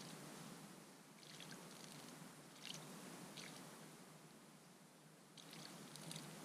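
Faint, scattered splashing of a Eurasian tree sparrow bathing in a shallow bird bath, in short flurries, the last and busiest near the end.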